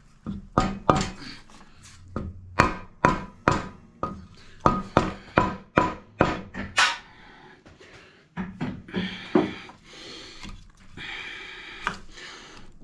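Hammer blows on a stuck part inside a blown-up Briggs & Stratton mower engine: about fifteen sharp, ringing strikes in quick runs over the first seven seconds, then a few seconds of rubbing and scraping. The part stays stuck.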